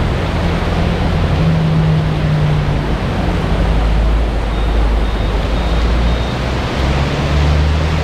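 Toyota MR2 Spyder's swapped 2ZZ-GE four-cylinder engine, driven gently on break-in miles, heard from inside the cabin in the rain: a low engine hum that changes pitch a few times under a steady hiss of rain and wet tyre noise.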